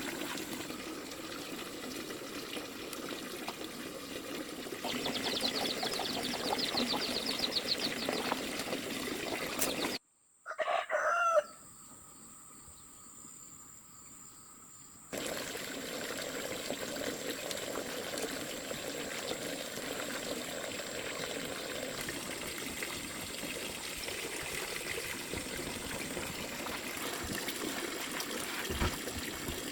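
Steady trickling water, then an abrupt cut about ten seconds in and a short, loud rooster crow, the loudest sound in the stretch. It is followed by a few seconds of near quiet before the steady water sound returns.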